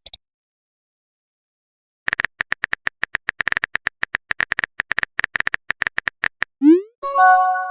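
Phone keyboard typing sound effect: a rapid run of clicks lasting about four seconds. Then a short rising swoosh as the message is sent, and a brief chime of a few notes near the end.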